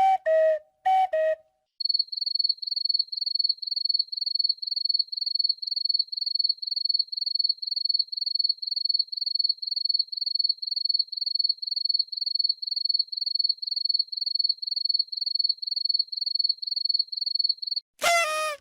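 Cricket chirping sound effect: a high, steady chirp repeated about three times a second. It is preceded by two short falling pitched notes and cut off near the end by a loud, falling pitched sound.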